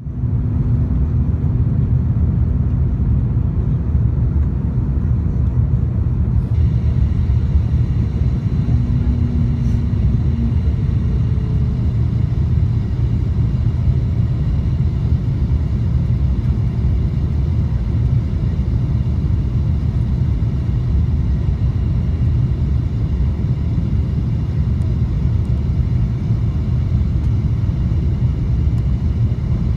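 Steady low rumble of cabin noise inside an Airbus A350-941 in flight, the airflow and engines heard from a window seat. Faint high steady tones join about six seconds in.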